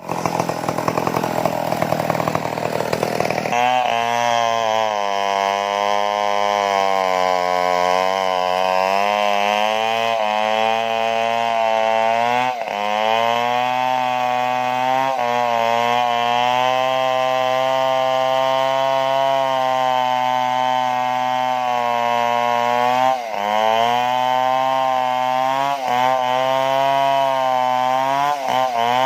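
Stihl two-stroke chainsaw running at high throttle, cutting into wood. The engine note wavers up and down and dips briefly several times, after a rougher, noisier first few seconds.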